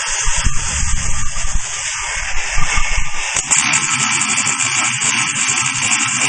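Welding stress relief machine's treatment tool running against a weld with a steady hissing buzz, which turns to a rapid, even pulsing about halfway through.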